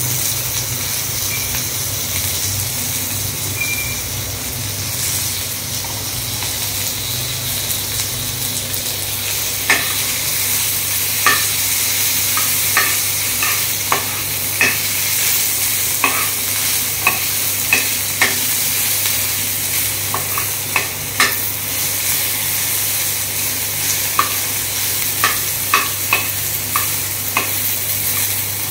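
Tomatoes, green chillies and curry leaves sizzling in hot oil in a frying pan. A steel spoon stirs them; from about ten seconds in it repeatedly clinks and taps against the pan.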